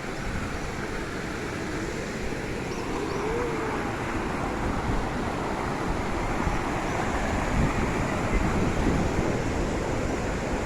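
Steady rushing of a waterfall, with faint distant voices now and then.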